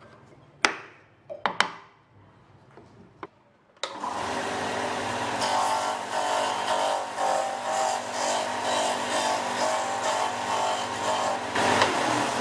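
A few sharp knocks and clicks, then a small electric power tool starts about four seconds in and runs steadily with an even motor tone.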